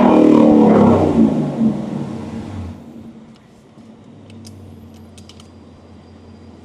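Ford Mustang GT V8 with a full MBRP exhaust, loud for the first two seconds as the revs come down, then settling to a steady low idle.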